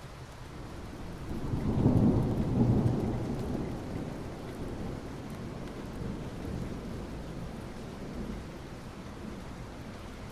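Soft rain falling steadily on asphalt, with a low rumble that swells about a second in, peaks briefly and fades away over the next few seconds.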